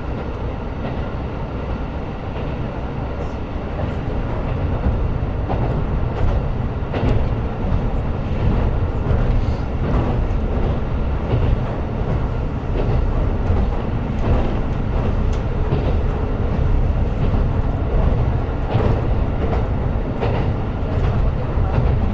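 KiHa 125 diesel railcar running, heard from inside the car: a steady low rumble of engine and wheels on rail with occasional clacks over the rail joints. It grows a little louder about four seconds in.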